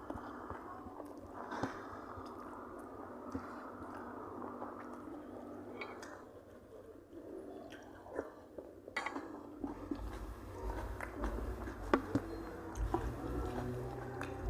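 Close-up eating sounds: a person chewing food, with wet mouth smacks and small irregular clicks. About two-thirds of the way through, a low rumble comes in underneath.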